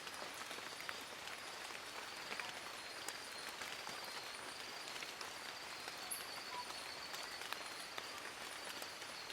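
Steady rain falling in a forest: an even hiss with many separate drops ticking on leaves close by. A faint, steady high tone runs underneath.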